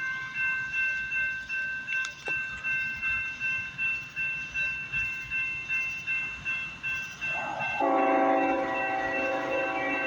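Railroad crossing bell ringing in steady strokes about twice a second, then a diesel locomotive's air horn starts sounding about 8 seconds in as the train approaches the crossing.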